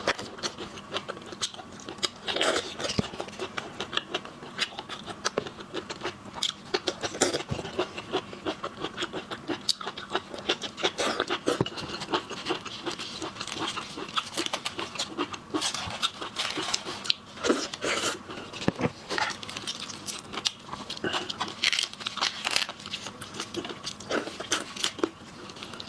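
Close-miked eating of seafood: a steady run of wet chewing, sucking and crunching, with many small clicks and smacks.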